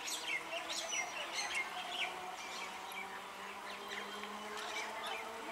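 Small birds chirping in many quick, short calls, busiest in the first two seconds, over a faint steady hum.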